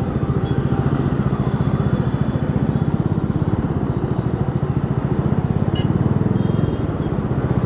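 Bajaj Dominar 400's single-cylinder engine running at a steady speed, giving an even train of exhaust pulses with no revving.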